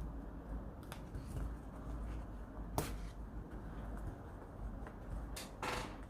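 Paper and stationery being handled: a few sharp clicks and taps, then a short rustle of paper near the end, over a low steady hum.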